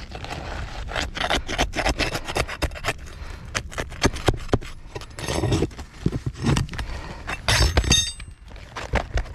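Hands-on shingle roof repair: irregular scraping, clicking and knocking as asphalt shingles and tools are handled, with a brief metallic clink near the end.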